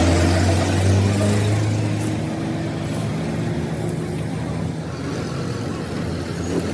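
A motor engine running with a steady low hum, loudest for the first two seconds and then easing to a lower, even drone.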